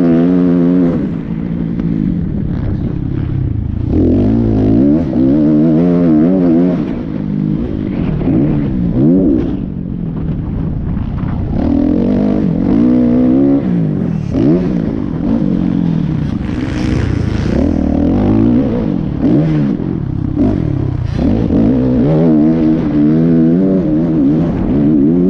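Motocross dirt bike engines revving, pitch climbing and dropping again and again as the throttle is worked through gear changes, at times with more than one bike at once.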